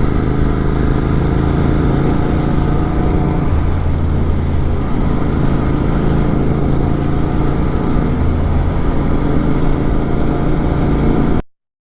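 Motorcycle engine running steadily at cruising speed, most likely a Kawasaki Z900 with an SC Project exhaust. The sound cuts off abruptly to silence near the end.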